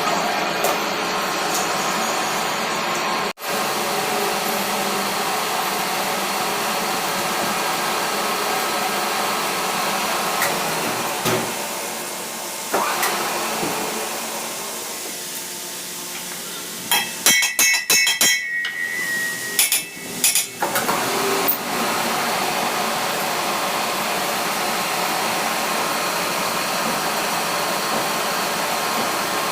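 A workshop machine runs with a steady whirring hum. Past the middle comes a quick cluster of sharp metal-on-metal hammer knocks, some ringing briefly, which is typical of work on a steel shaft.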